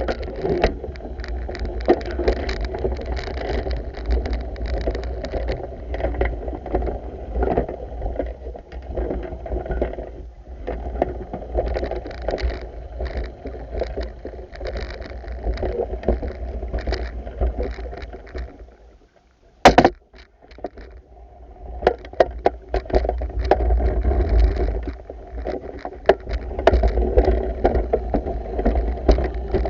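Water sloshing and splashing with handling noise during manual pool vacuuming, under a constant low rumble. It drops away briefly about two-thirds of the way through, broken by one sharp knock, then resumes.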